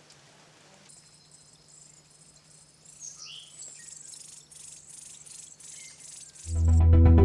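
Chorus of insects calling in repeated high pulses, with a few short bird chirps around the middle. Loud music comes in near the end.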